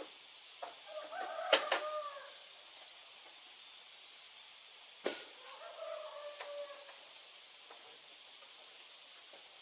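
Chickens calling twice, a few seconds apart, each call near a sharp knock, over a steady high-pitched drone.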